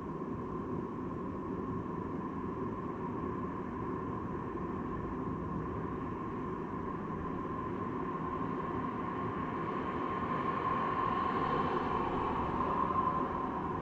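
Steady rushing road and wind noise from a moving bicycle ride, with a steady hum that grows a little louder near the end.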